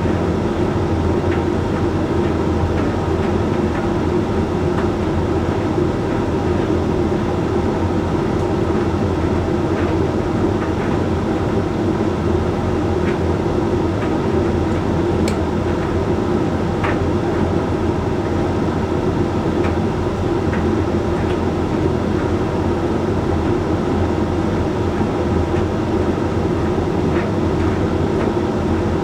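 Hoover Link X Care HLX C10DRGR condenser tumble dryer running mid-cycle on its Whites cotton programme: a steady hum of motor, drum and fan, with a few faint ticks here and there.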